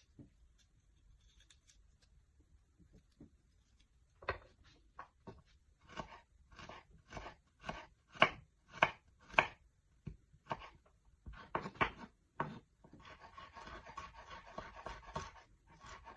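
Knife chopping vegetables on a cutting board, in a series of separate strokes, then a few seconds of steady rustling noise near the end.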